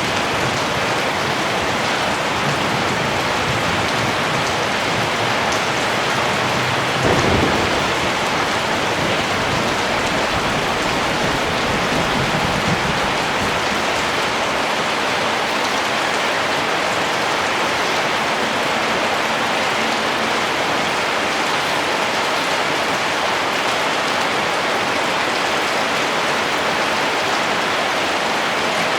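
Steady rain falling, an even hiss. About seven seconds in there is one brief low rumble.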